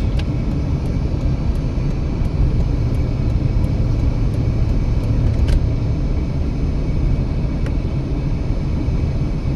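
Steady, low road and engine noise of a car driving at highway speed, heard from inside the cabin.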